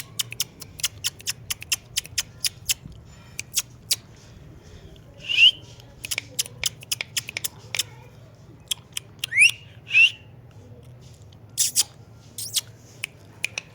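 Pet parrot making a few short whistled chirps, one rising sharply about two thirds of the way through, and two brief harsh squawks near the end, among many sharp irregular clicks.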